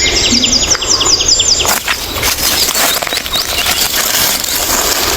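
A small bird sings a rapid trill of short falling notes that stops about two seconds in. After that comes a dense rustling and crackling, like movement through dry forest litter.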